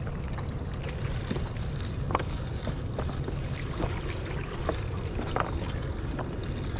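Fishing rod and reel working a hooked catfish in to the bank: scattered light clicks and taps over a steady low rumble.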